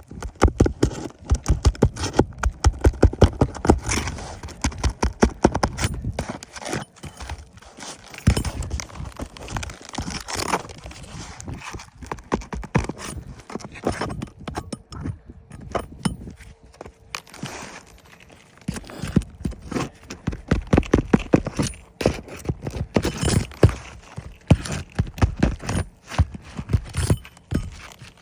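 Hammer striking on roof shingles: runs of quick blows, several a second, broken by short pauses.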